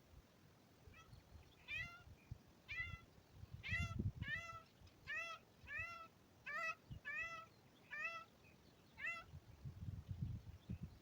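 A cat, most likely a kitten, mewing again and again: about eleven short, high meows in a steady series lasting some eight seconds.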